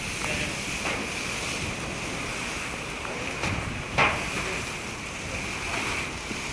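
Steady wind buffeting the microphone over the rush of the open sea, with one brief sharp knock about four seconds in.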